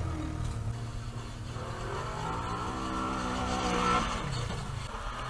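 Off-road 4x4 engine revving under load. The pitch climbs for a couple of seconds, then drops sharply about four seconds in, over a steady low rumble.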